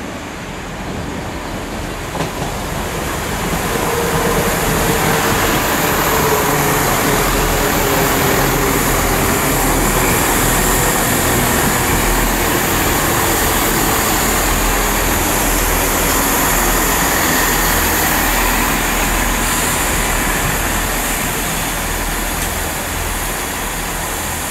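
Chiltern Railways diesel multiple unit passing close by: engines and wheels on the rails, growing louder about four seconds in and staying loud, with a pitched whine that drops slightly as it comes past.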